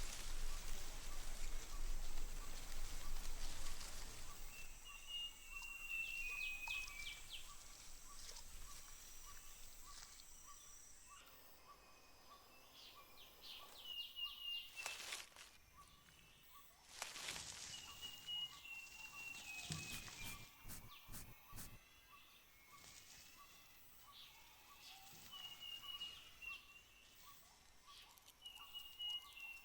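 Rainforest ambience: a hiss of rain or dripping fades out over the first four seconds, then a bird repeats a short falling run of notes about five times over a faint, steady pulsing insect call.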